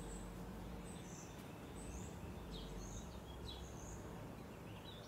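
Small birds chirping faintly: short, high, scattered chirps over a low steady background hum.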